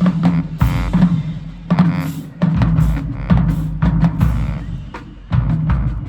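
Marching band music: held low brass notes punctuated by heavy bass drum and snare hits about every half second to second.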